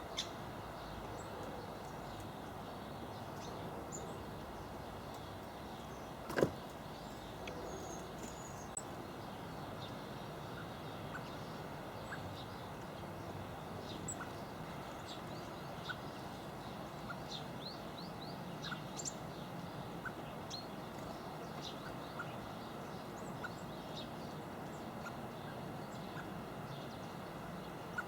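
Small garden birds at a feeder giving short, high chirps and calls, scattered and more frequent in the second half, over a steady background hiss. A single sharp knock about six seconds in.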